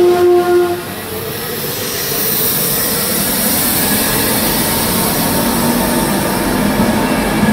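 An LNER express train passing at speed. The last of a single held horn note cuts off within the first second, then the steady rush of the coaches and the wheels on the rails builds, with a high hiss.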